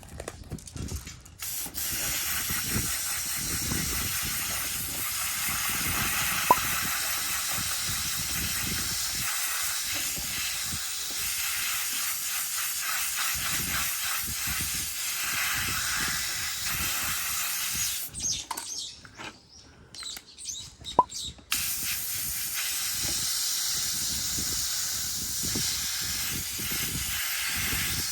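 A steady hiss from a pressurised jet blowing through an air-conditioner filter. It runs in two long stretches with a few seconds' break about two-thirds of the way in.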